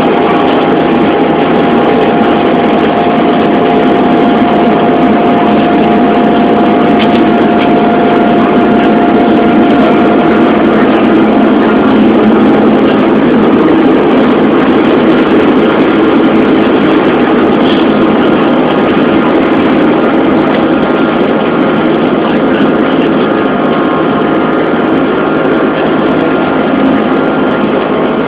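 Airbus A330-200 jet engines at takeoff power, heard inside the cabin as a loud, steady roar with faint whining tones. The tones shift partway through.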